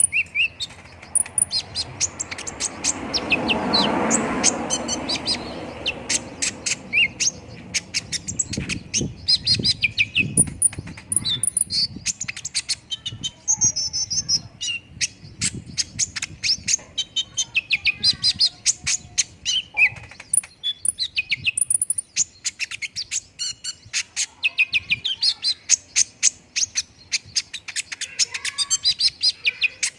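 Kolibri ninja sunbird song: a rapid, continuous stream of sharp, high chirps and twitters played as a lure recording to set other birds singing. A broad rushing noise swells up and fades away in the first few seconds.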